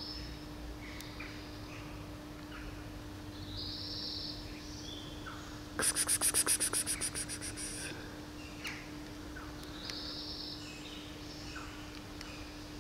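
Outdoor bird calls: scattered faint chirps, then about six seconds in a high, rapid rattling trill of roughly eight notes a second that lasts about two seconds and fades out. A steady low hum runs underneath.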